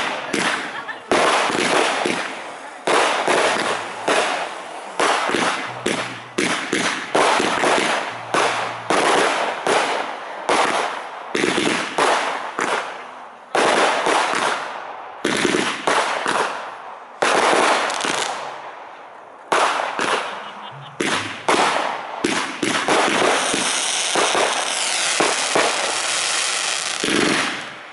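Aerial fireworks shells bursting in quick succession, each sharp bang fading off before the next. Near the end the bangs give way to a few seconds of continuous crackling.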